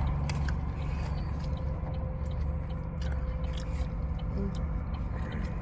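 Steady low road rumble inside a moving car's cabin, with scattered small clicks and crackles close to the microphone.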